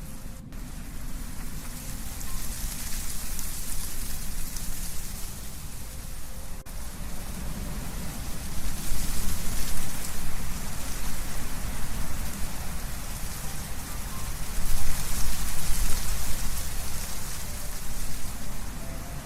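Wind blowing through trees, leaves rustling in a steady rush that swells in gusts about halfway through and again later.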